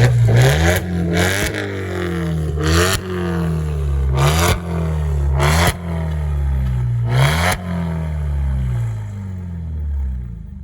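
A car engine revving hard about six times, each rev climbing and then dropping in pitch, with a sharp crack of noise at each peak; the sound fades out near the end.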